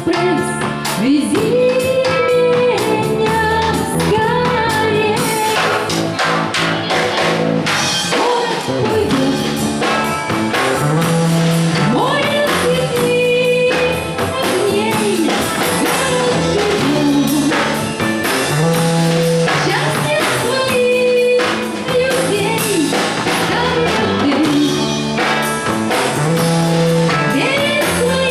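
Band playing a song live: a singer's voice over a band with a steady drum beat.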